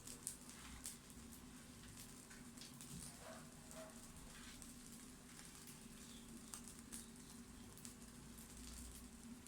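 Faint sizzling and crackling of food frying in oil in a pan, with scattered small pops over a steady low hum.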